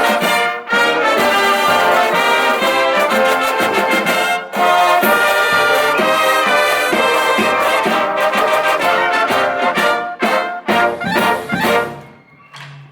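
Marching band brass section playing a loud, full march with trumpets and trombones over a steady drum beat. The music ends about a second before the close, with a short final chord, then falls away.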